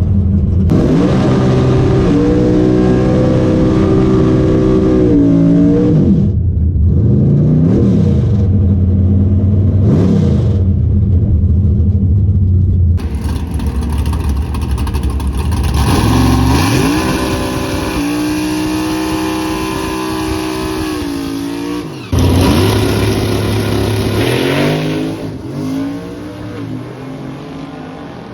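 Drag race car engine, rated at over 800 horsepower, revving. Its pitch climbs and falls several times, then it makes long pulls rising in pitch, drops abruptly about 22 seconds in, climbs again and fades near the end.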